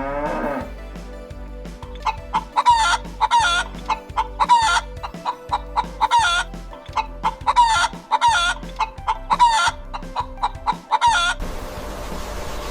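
Domestic chicken clucking: a quick series of short, sharp calls, nearly two a second, for about nine seconds, which stops abruptly. A cow's moo is ending at the very start.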